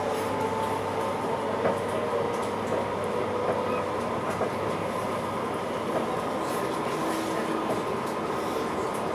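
Class 710 Aventra electric train heard from inside the carriage while running: a steady rumble of wheels on track, with a faint whine that drifts slowly in pitch and a few light clicks.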